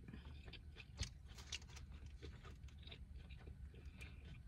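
Faint chewing of a Whopper burger close to the microphone: soft wet mouth clicks and smacks, with one sharper click about a second in.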